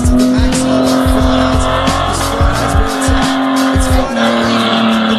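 Car engine in a burnout, held at high revs with the tyres spinning and squealing, its pitch dipping slightly about four seconds in. Music plays over it.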